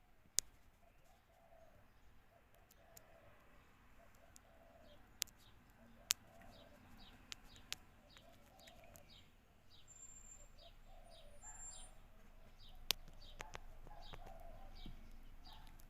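Birds at feeding time: a faint run of short, high chirps repeating about three times a second, some lower calls, and scattered sharp clicks.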